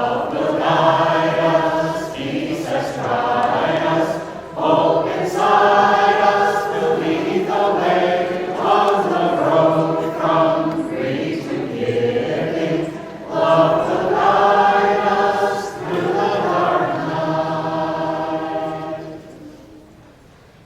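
A small vocal group singing a song together in long held phrases, the last note dying away near the end.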